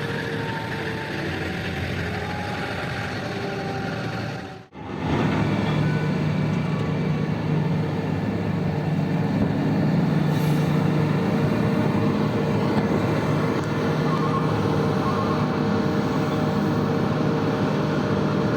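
Heavy mining machinery's diesel engines running, their pitch falling for the first few seconds. The sound cuts out abruptly about five seconds in, then gives way to a steady, deeper engine drone.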